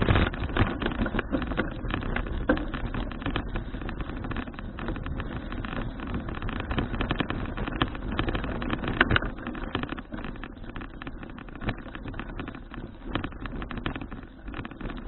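Wind buffeting an action camera's microphone on a moving bicycle, a constant rushing rumble with gusty flutter, loudest in the first second and again about nine seconds in.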